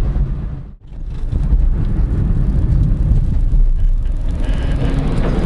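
Car driving noise heard from inside the cabin: a steady low rumble of engine and tyres on the road, cutting out briefly about a second in before carrying on.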